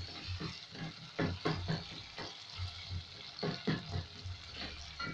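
Onion and tomato paste sizzling in oil in an aluminium pot as a wooden spoon stirs and scrapes it. The scraping comes in repeated short strokes, about two a second.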